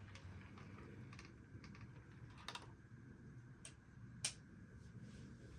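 Near silence broken by a handful of short, sharp clicks and taps, the loudest about four seconds in.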